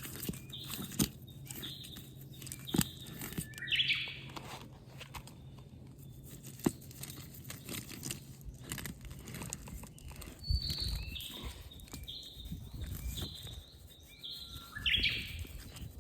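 A bird singing twice: each phrase is a run of four or five short, evenly spaced high chirps ending in a louder, rougher burst. Scattered clicks and crunching noises sound between and under the calls.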